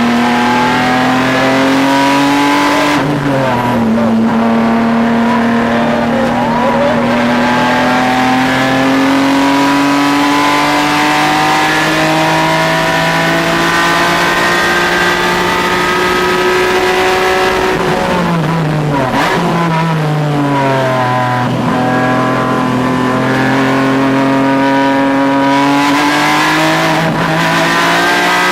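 Race car engine lapping a road course at high revs, its pitch climbing slowly on the long pulls. It drops in a quick gear change about three seconds in, and again in a run of downshifts with throttle blips around eighteen to twenty-one seconds in, before climbing again.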